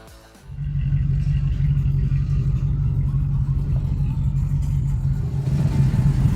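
2003 Land Rover Discovery 2 driving slowly along a rough off-road trail, its engine and drivetrain giving a steady low drone that starts abruptly about half a second in.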